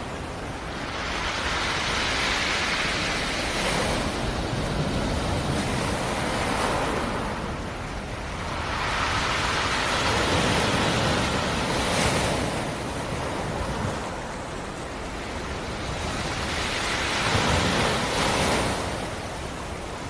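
Sea surf: three waves break and wash back, each a rising rush of hiss that swells over a few seconds and then fades.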